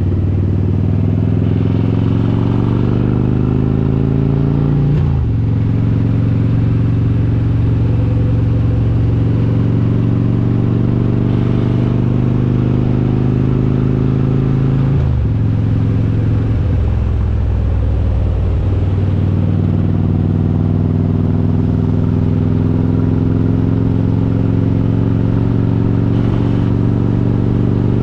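Harley-Davidson Road King's S&S 95-inch V-twin with Super Stock heads, riding under way. The engine pulls up in pitch and shifts up a gear about five seconds in and again about fifteen seconds in. It eases off for a couple of seconds, then climbs slowly again near the end.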